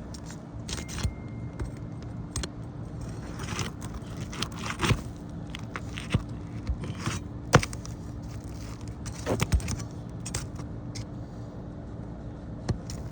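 Metal tool scraping and clinking against asphalt shingles and roofing nails as nails are worked out of a shingle: scattered, irregular clicks and scrapes over a steady low hum.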